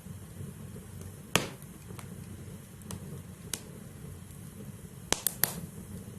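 Wood fire burning in a fireplace, with a steady low rumble and sharp crackles and pops from the burning logs: one loud pop about a second and a half in and a quick run of three near the end.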